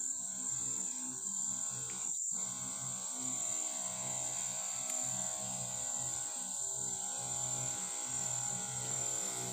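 Insects chirring in one steady high trill over a low, steady hum with a pulsing bass. All sound drops out for a moment about two seconds in.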